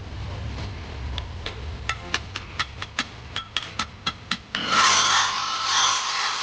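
A quick run of sharp ticks, about four a second, then a loud rasping rub that carries on to the end.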